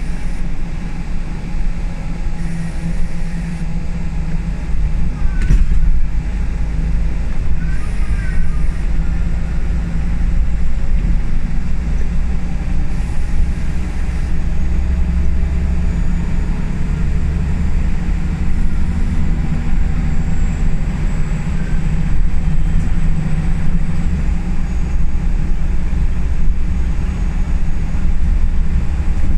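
Scania L94UB single-deck bus heard from inside while driving: a steady low engine and road rumble, with the engine note rising and falling at times. A single sharp knock comes about five and a half seconds in.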